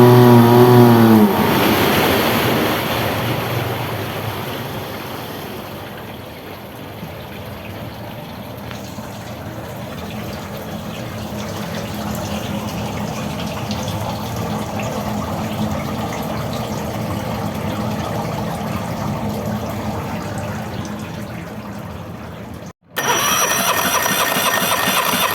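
Suzuki DF30 outboard motor: high revs fall away about a second in, and the motor settles into a steady idling hum. Near the end there is an abrupt cut to a louder burst of engine or starter sound.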